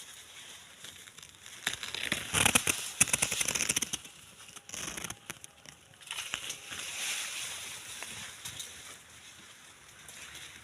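Maize plants rustling and crackling as they are pushed through or handled. A loud, dense burst of crackling comes about two seconds in and lasts about two seconds, with a softer stretch of rustling later.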